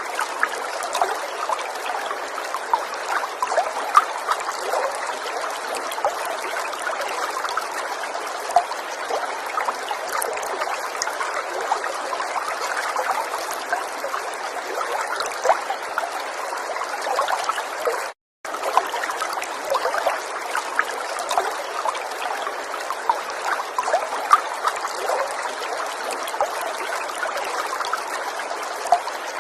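River water flowing and trickling over stones, a steady babble flecked with small splashes. It cuts out for a moment about 18 seconds in, then carries on unchanged.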